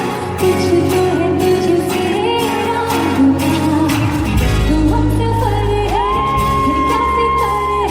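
A Bollywood film song with a voice singing over a full backing; a long note is held from about six seconds in.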